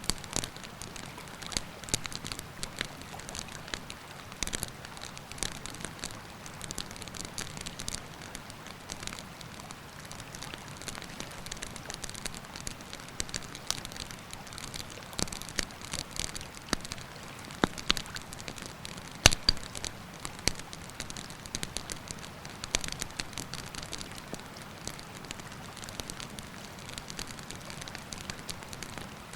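Wood campfire crackling, with frequent sharp pops and one loud pop about two-thirds of the way through, over the steady rush of a river.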